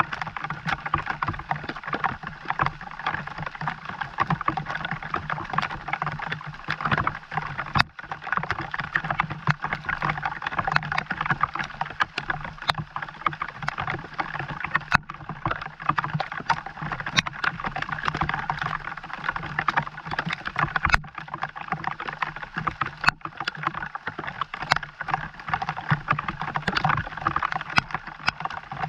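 Steady rain falling, with many sharp individual drops and drips.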